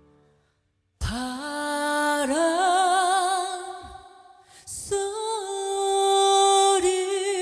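About a second of silence, then music starts abruptly: a single voice holding long wordless notes with vibrato, in two phrases with a brief dip between them.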